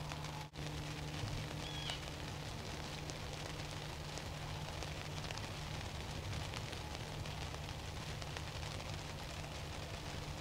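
Steady outdoor background hiss over a constant low hum, with a faint short high chirp about two seconds in.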